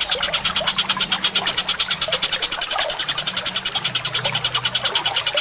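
Bird calls from a songbird training (masteran) recording: a rapid, very even chatter of about nine notes a second, with softer short chirps underneath.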